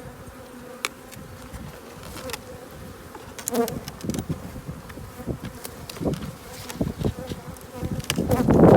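Honeybees buzzing in a steady hum around an open hive, with scattered light clicks, and a louder rush near the end.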